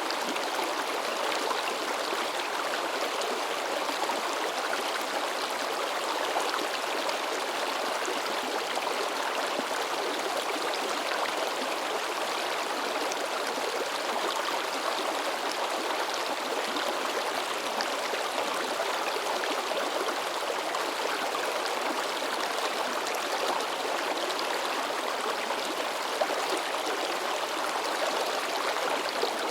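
Shallow river babbling and splashing over rocks, a steady rush of water without let-up.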